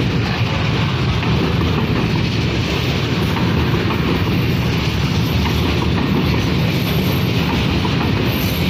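Freight train of container-laden flatcars rolling past close by: a steady, loud, deep noise of steel wheels running on the rails.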